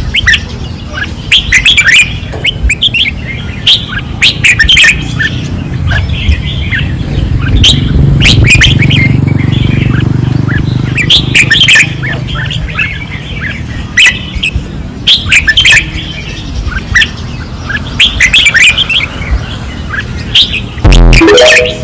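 Red-whiskered bulbuls singing loudly on a training rail, phrase after phrase of quick, sharp chirping notes. A low rumble runs underneath, and there is a loud thump just before the end.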